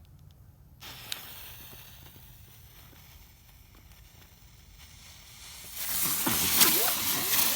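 Jumping jack ground-spinner firework: a faint hiss of the burning fuse starts about a second in. Near the end it ignites into a much louder rushing hiss, with pitch swooping up and down as it spins on the ground throwing sparks.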